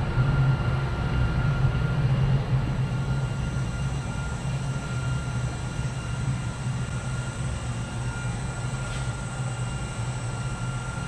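Twin-turbo LS V8 idling with a steady, slightly uneven low rumble and a faint high whine.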